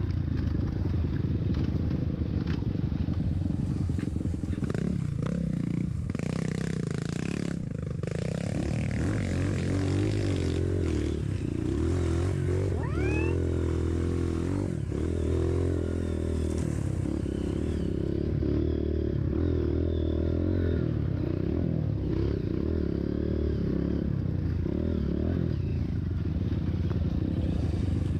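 Dirt bike engine running continuously while riding a trail, its engine speed rising and falling, easing off briefly about seven or eight seconds in and then picking up again.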